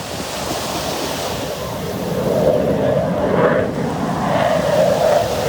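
Jet noise from an F/A-18F Super Hornet's twin engines: a broad, steady rushing sound that grows louder about two seconds in.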